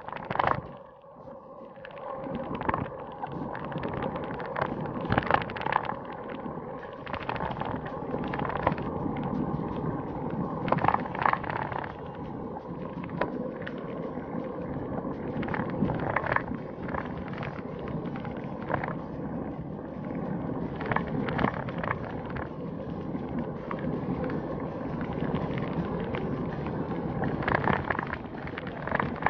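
Bicycle riding along a road: steady wind and road noise with frequent knocks and rattles as the bike goes over bumps.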